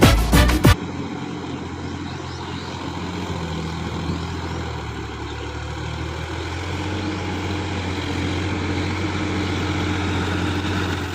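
Sonalika DI-50 RX tractor's diesel engine running steadily at low speed, growing slightly louder later on. Background music cuts off just under a second in.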